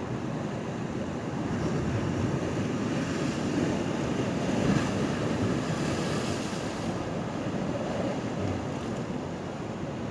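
Sea waves surging and washing, one swell building a couple of seconds in, loudest near the middle, then easing off.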